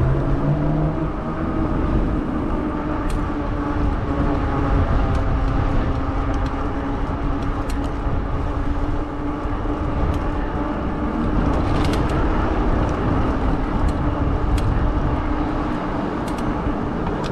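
Fat tire e-bike riding: a steady hum with a constant pitch, over a heavy low rumble of wind on the microphone, with a few faint ticks.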